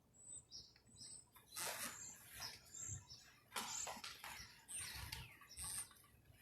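Small birds chirping with short high notes, over several brief rustling noises. No bell is ringing.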